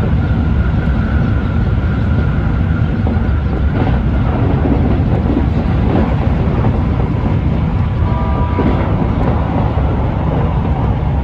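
Keikyu electric train running at speed: a steady, heavy rumble of wheels on rail, with a faint high whine over the first few seconds and a brief ringing tone about eight seconds in.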